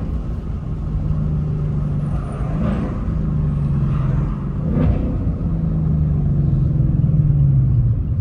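Ford Mustang engine and exhaust, not yet fitted with headers, running steadily under load with brief jumps in pitch about two and a half and five seconds in, growing louder toward the end.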